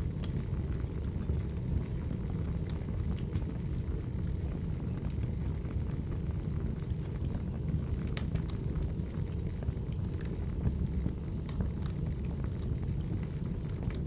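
Wood fire burning: a steady low rumble of flames with scattered sharp crackles and pops from the burning logs, a few louder pops past the middle.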